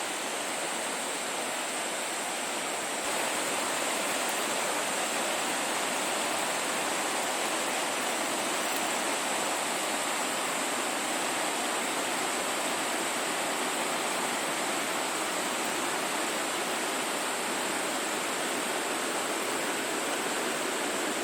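Steady rushing noise of flowing water, like a stream, that gets a little louder about three seconds in.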